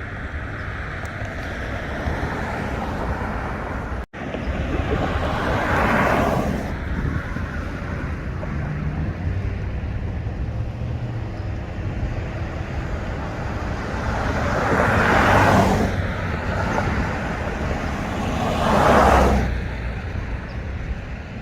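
Cars passing on a street over a steady background of traffic noise. Three of them swell up and fade away, the last two close together near the end.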